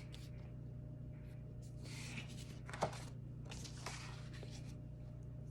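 Quiet room tone with a steady low hum, broken by a few soft rustles and one small tap or click just under halfway through.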